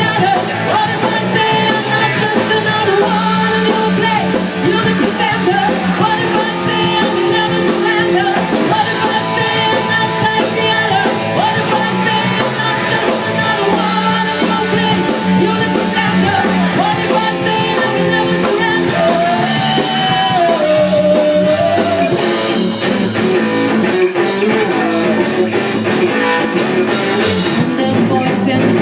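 Rock band playing live: a singer over electric guitar and drums, loud and steady.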